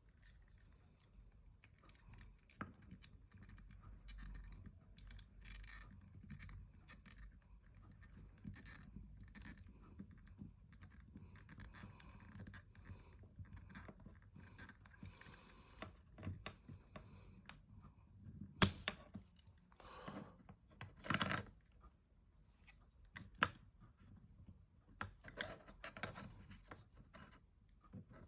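Faint scratching and small clicks of hard plastic model-kit parts being handled and pried apart, with a sharper click about two-thirds of the way through.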